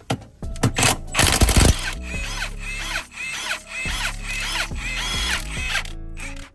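A power tool with a 16 mm socket zips off engine-mount bolts in short loud bursts in the first two seconds, over background music. For the rest of the time the music carries on with a repeating rhythmic figure.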